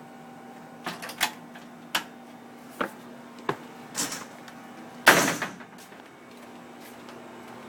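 A string of sharp knocks and clatters, roughly one a second, then a louder scraping rustle about five seconds in, over a faint steady hum.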